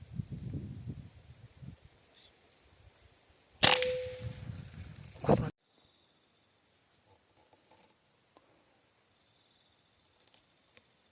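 PCP air rifle firing: a loud sharp crack about a third of the way in, then a second sharp crack under two seconds later, before the sound cuts off abruptly. A faint steady high insect drone follows.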